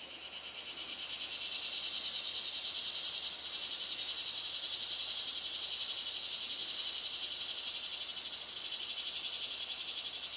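High insect buzzing that swells in over about two seconds, holds steady, then fades near the end.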